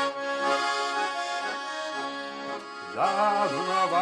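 An accordion plays a folk tune between sung verses, holding chords. Singing comes back in near the end.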